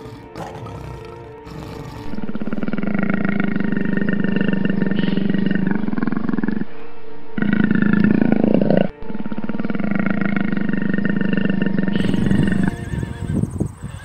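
Three long, loud, rough-textured calls from a large animal, each held steady for a few seconds, over background music.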